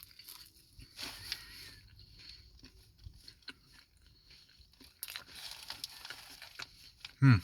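A person biting into and chewing a Popeyes fried chicken sandwich close to the microphone, with crunches of the crispy breading around one second in and again about five seconds in. A short, loud voiced sound comes near the end.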